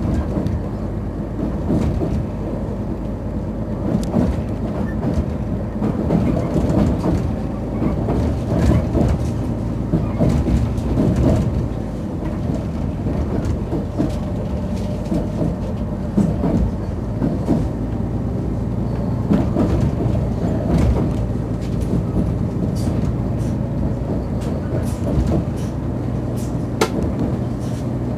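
Passenger train running along the track, heard from inside the carriage: a steady rumble with irregular clicks and knocks from the wheels on the rails.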